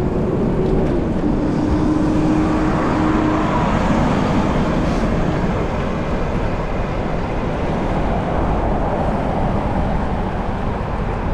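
Steady road-traffic noise and wind rush from riding a bicycle, with a passing vehicle's hum that drops slightly in pitch about a second in and fades a few seconds later.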